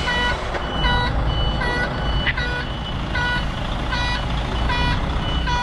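Container truck's reversing alarm beeping at a steady pace, about one beep every 0.8 seconds, over the diesel engine running: the truck is in reverse.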